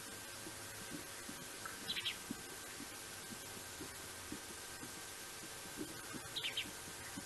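A bird gives two short bursts of high chirps, about two seconds in and again near the end, over a steady hiss. Underneath, faint soft ticks about twice a second come from a lion lapping water.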